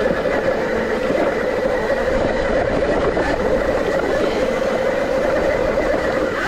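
ETM RTR electric dirt bike under way, its motor giving a steady whine that wavers slightly in pitch, over rough wind and tyre noise.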